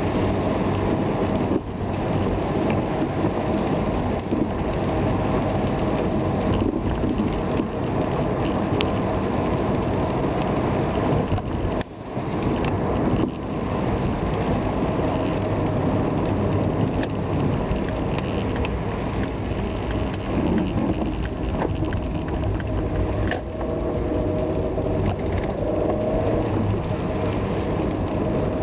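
A vehicle driving on rain-soaked roads: steady engine and wet road noise, with a faint engine note that rises and falls. The level dips briefly about 12 seconds in.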